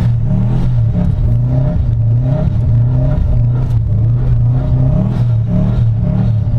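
Turbocharged flat-four engine of a 2005 Subaru WRX running under throttle, its pitch swelling up and down in short repeated surges.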